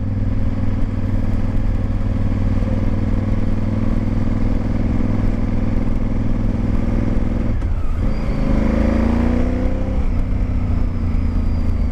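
Honda Varadero XL1000V's V-twin engine running under way, heard from the rider's position. About eight seconds in it briefly dips, then rises in pitch for a couple of seconds as the bike accelerates, and settles again.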